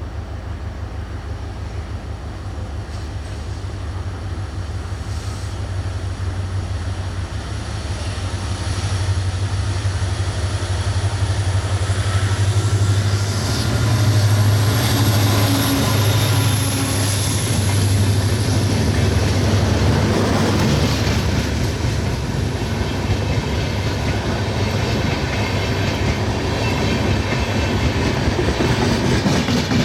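A passenger train running through the station, its wheels clattering over the rail joints over a steady low engine hum. It grows louder over the first half and stays loud as the coaches pass, with a faint high whine from the wheels in the middle.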